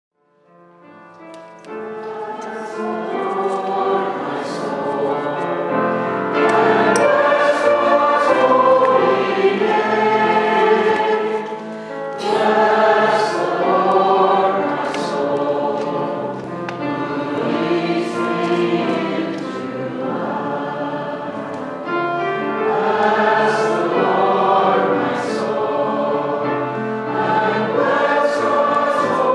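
A choir singing, fading in about a second in and continuing steadily.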